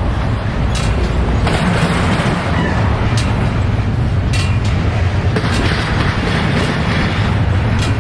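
Intermodal freight train rolling past: a steady low rumble from the cars, with sharp clicks and knocks every second or so.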